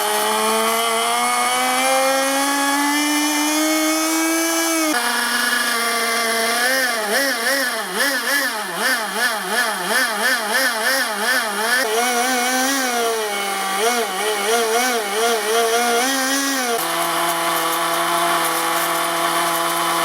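A 2cc micro nitro two-stroke RC engine running at high speed. Its pitch climbs steadily for the first few seconds, then is revved up and down about twice a second, and it settles to a steady, lower-pitched run near the end.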